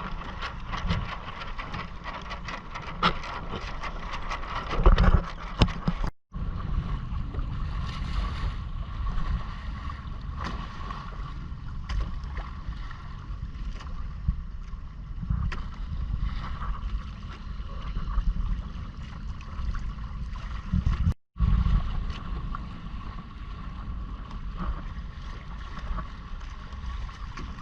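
Wind rumbling on the microphone and water washing along the hull of a Hobie Island sailing kayak underway. The sound drops out completely twice for a split second.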